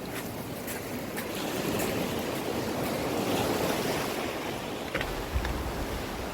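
Sea waves washing onto the shore, swelling about two to four seconds in, with wind blowing. A short low rumble of wind buffeting the microphone about five seconds in.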